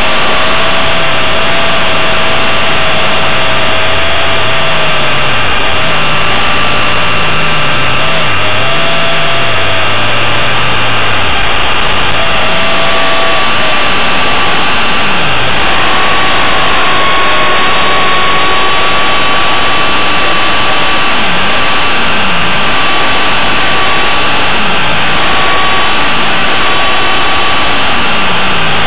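V913 RC helicopter's electric motor and rotors running in flight: a loud, steady high-pitched whine, with a lower tone that swings up and down during the first dozen seconds as the rotor speed changes.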